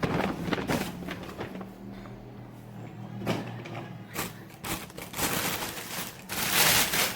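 Rustling and light knocks of items and packaging being handled, with a low steady hum in the middle and a louder stretch of rustling near the end.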